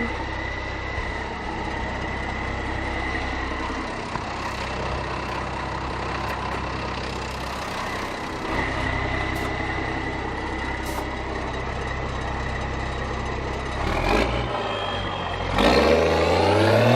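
Rally assistance truck's diesel engine idling steadily, then revving and pulling away about fourteen seconds in, its pitch climbing.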